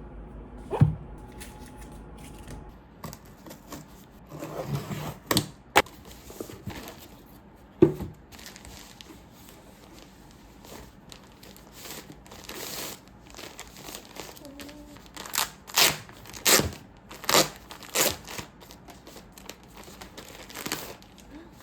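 Packaging being handled: crinkling and tearing in short rustling strokes, with a run of about six louder swishes near the end and a couple of sharp knocks.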